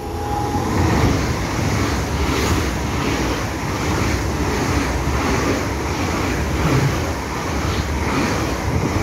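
ICE high-speed train running through at speed close by: a loud, steady rush of wheel and air noise, with a faint regular pulse a little under twice a second as the coaches go past.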